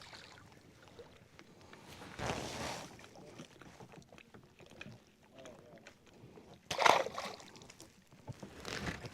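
Quiet water-and-handling sounds from a fishing kayak: three short splashy rushes, about two seconds in, a sharper louder one near seven seconds and one near the end, with faint clicks and knocks in between.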